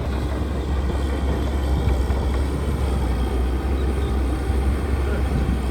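Diesel engine of heavy earthmoving equipment running steadily with a deep, even rumble.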